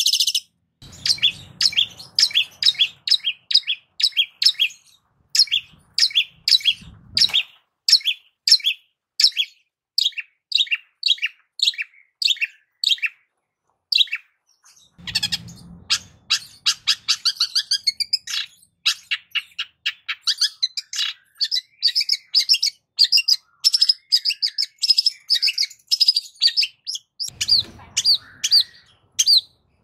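Long-tailed shrike (cendet) singing a long run of short, sharp, high notes, about two to three a second, with a couple of brief pauses.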